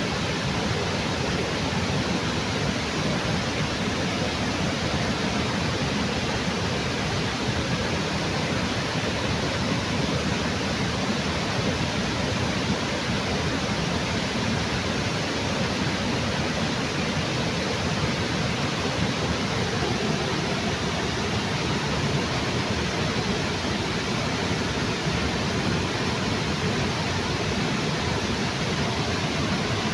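Waterfall rushing steadily, an even, unbroken roar of falling water with no changes.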